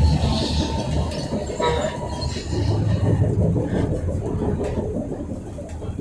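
Berlin U-Bahn H95 metro train running along the track with a steady low rumble and wheel noise, growing quieter toward the end. There is a brief squeak about two seconds in.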